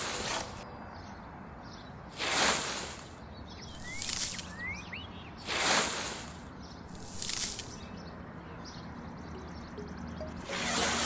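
A series of about six short rushing hisses, one every one and a half to two seconds, with a few faint high chirps between them.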